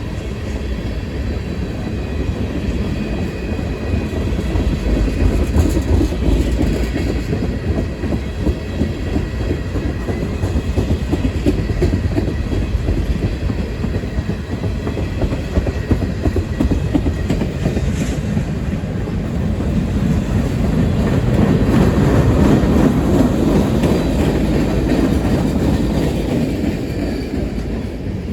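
CSX freight train rolling past, its cars' wheels rumbling and clicking steadily over the rail joints, with a few sharper clicks and a swell in loudness about three quarters of the way through.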